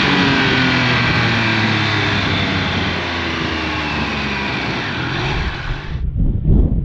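Triumph Speed Triple 1200 RR's 1160cc inline-triple engine heard from onboard at high speed, its pitch slowly falling as the bike slows from a top-speed run, with rushing wind. About six seconds in it gives way abruptly to gusty wind rumble on a trackside microphone.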